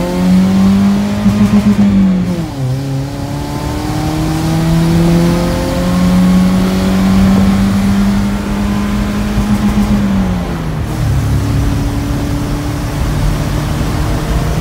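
Car engine heard from inside the cabin, accelerating hard: the revs climb and hold high with a brief pulsing at the top, drop sharply as the gear changes about two seconds in, climb and hold high again, then fall off about ten seconds in and settle at a lower steady note.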